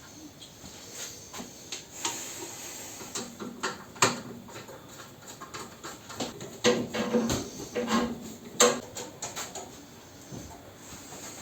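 Irregular clicks and knocks from the top cover of a Centrometal ZV 14 pellet stove being fitted and screwed down after cleaning. A few of the knocks ring briefly; the loudest come about 4, 7 and 9 seconds in.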